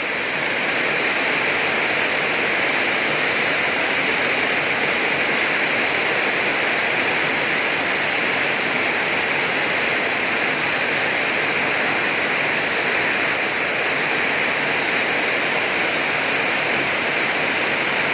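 Heavy storm rain pouring down: a dense, steady hiss that swells during the first second and then holds.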